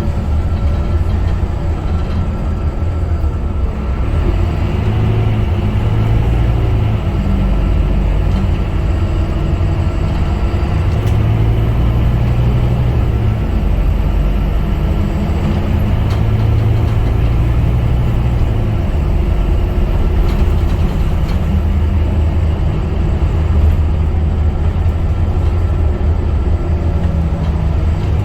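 Scania K250UB bus running in service: a continuous low rumble from its rear-mounted diesel engine, the note shifting up and down every few seconds.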